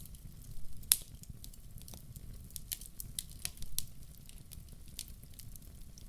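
Wood fire in a fireplace crackling, with irregular sharp pops, the loudest about a second in, over a steady low rumble.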